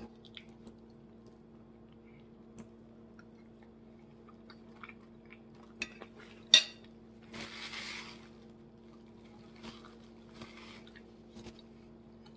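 Kitchen clatter: scattered clinks and knocks of dishes and utensils, with one sharp clack about six and a half seconds in and two brief hissing sounds, over a steady electrical hum.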